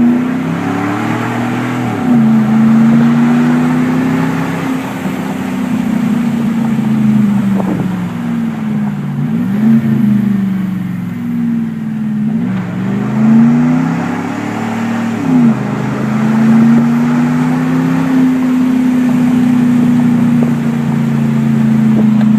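2010 Chevrolet Silverado's engine through its aftermarket dual exhaust, accelerating through the gears in manual tow mode. The pitch climbs and then drops sharply at each upshift, about four times, before settling into a steady cruise in the second half.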